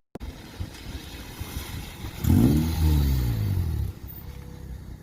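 Car engine running through a newly fitted Magnaflow muffler. About two seconds in, a loud burst of engine sound falls in pitch over a second and a half, then drops back to a low rumble.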